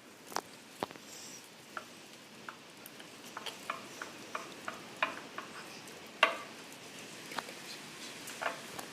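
A spoon stirring a slime mix of glue and styrofoam beads in a container: light, irregular clicks and crackles, a couple of dozen in all.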